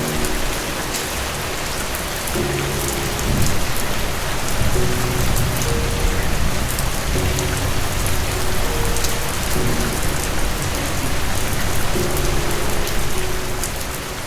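Steady rain falling, with fine scattered drop ticks, over soft background music of low held notes. From a few seconds in, a low rolling rumble of distant thunder swells underneath.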